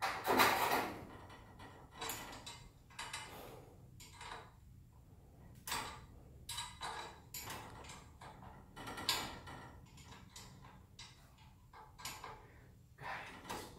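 Irregular metallic clicks and clanks of hand tools on garage door torsion spring hardware, about one a second, while the spring is being adjusted.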